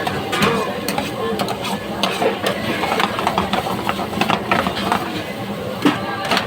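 Busy background ambience: indistinct voices with repeated short clicks and clatter.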